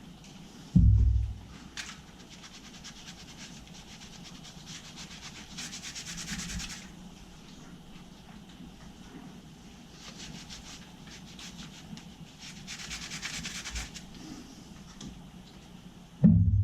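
Fast scrubbing strokes on the water heater tank's metal around the freshly soldered patch, in two spells. A loud thump comes about a second in and again near the end.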